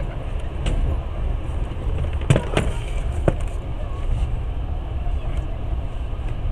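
Passenger train carriage running, a steady low rumble heard from inside the car. A few sharp knocks sound about two and three seconds in, the loudest a close pair.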